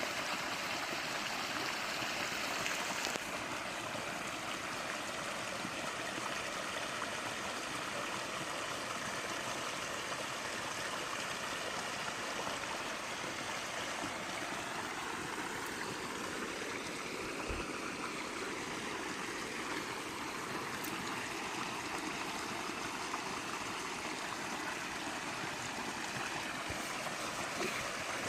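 Steady rushing and gurgling of flowing water from a stream, even throughout. A faint sound rises and falls in pitch through the middle, under the water.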